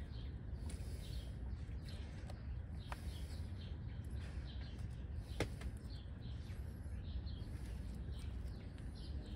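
Faint bird chirps in the background over a low outdoor hush, with two soft clicks about three and five seconds in.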